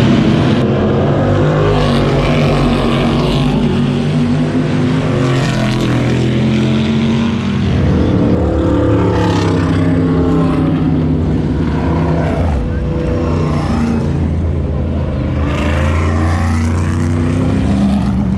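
Race car engines running hard on a track. Their pitch climbs and drops again and again as the cars rev, shift and pass by.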